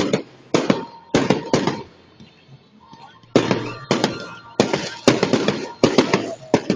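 Fireworks exploding overhead in a series of sharp bangs, each with a short echoing tail. About four bangs come in the first two seconds; after a lull of about a second, a faster run of eight or so follows.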